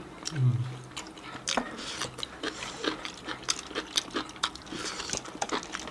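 Close-up wet chewing and mouth clicks of a person eating sauce-dipped octopus: a run of irregular, quick small clicks and smacks, with a short low hum about half a second in.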